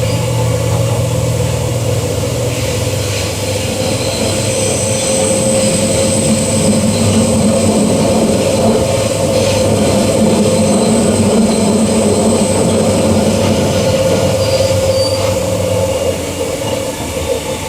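Queensland Rail EMU electric train running along the line, heard from inside the carriage: a steady rumble with a thin high whine through the middle. It grows a little louder mid-way and eases near the end.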